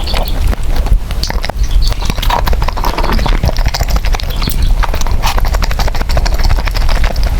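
Close-miked chewing and slurping of noodles, with a dense run of quick wet mouth clicks.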